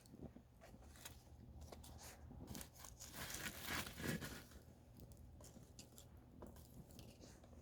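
Campfire burning: faint scattered crackles and pops of burning wood, swelling into a louder stretch of dense crackling about three to four seconds in.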